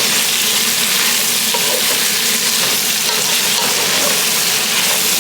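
Tomatoes going into hot oil with pan-fried chicken for a curry, sizzling loudly and steadily.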